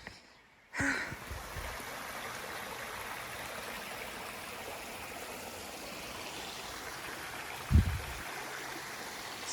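Steady rush of a small creek flowing, with a single dull low thump about eight seconds in.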